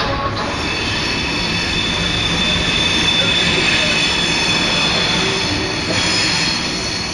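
High-speed train rolling past close along the platform: a steady rumble of wheels on rail with a high, held squeal over it, loudest around the middle.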